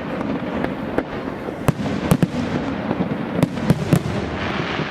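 Fireworks going off: a constant crackle with frequent sharp bangs, sometimes two close together.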